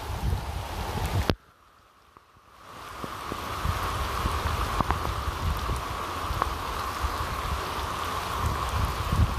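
Rain falling, an even hiss with scattered sharp drop ticks, fading in after a brief near-silent gap. Before the gap, a rumbling wind-like noise cuts off abruptly about a second in.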